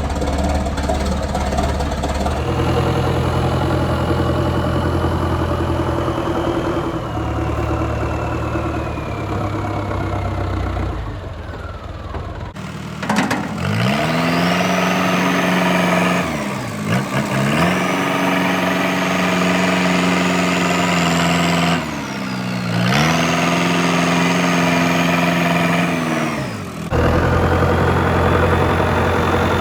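Farm tractor diesel engines running and working, across several cuts. In the middle section the engine's pitch sags sharply twice and comes back up, as under heavy load, with a high whine that rises and falls with it.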